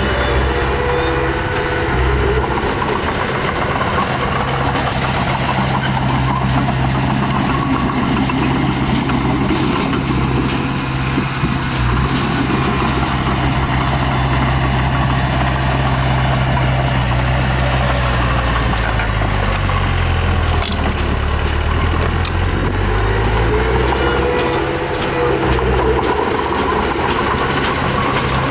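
Diesel engine of heavy earthmoving equipment running steadily, its pitch dipping and then rising again about twenty seconds in.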